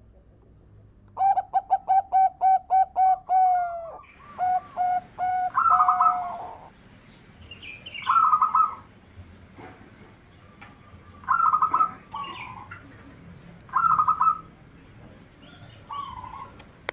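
Zebra dove (perkutut) cooing: a fast run of about ten short staccato coos about a second in, ending on a falling note, then a few more coos, then short trilled coo phrases every few seconds.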